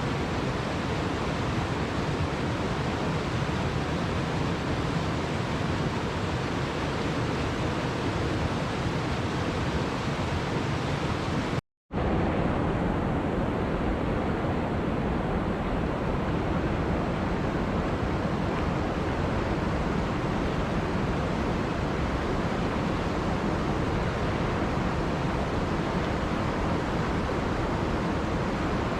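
Waterfall: a steady rush of falling water, broken once by a split-second dropout about twelve seconds in.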